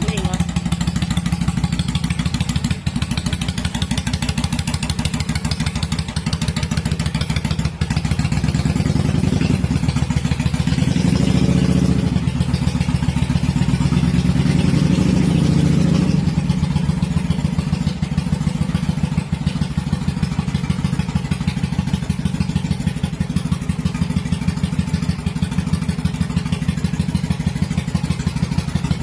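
Honda Shadow 400's V-twin engine idling steadily, revved up twice near the middle before settling back to idle.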